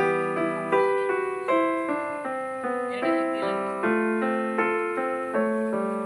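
Background piano music: a slow, even run of struck chords, each fading until the next sounds, a little under one a second.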